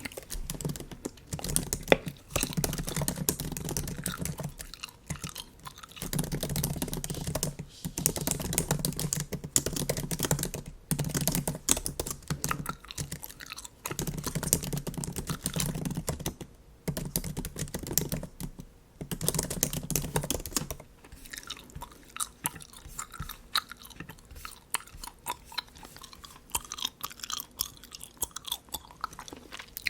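Bubble gum chewed wetly close to the microphone, in bursts of a couple of seconds with short pauses between. After about 21 seconds the chewing gives way to lighter, quieter clicking.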